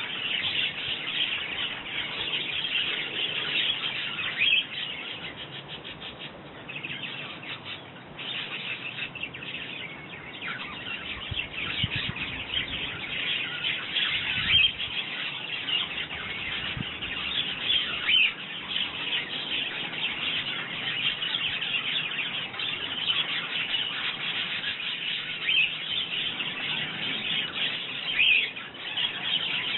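Small garden birds, sparrows and robins among them, chirping and calling without a break, many short high chirps overlapping.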